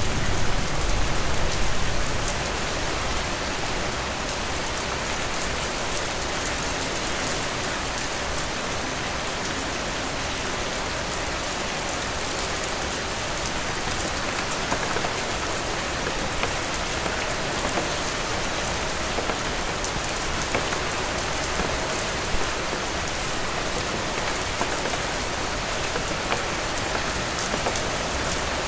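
Heavy rain falling steadily: a dense, even hiss full of fine drop ticks. A low rumble underneath eases off about two seconds in.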